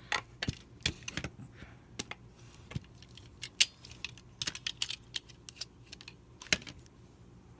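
Irregular light clicks, taps and clatter of small craft tools and supplies being handled on a tabletop, with one sharper knock about three and a half seconds in.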